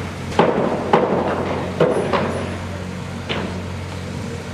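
Construction work: about five sharp, irregularly spaced knocks, like hammer blows, over a steady low machinery hum.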